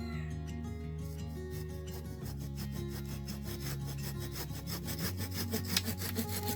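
Hand saw cutting wood in fast, continuous rasping strokes.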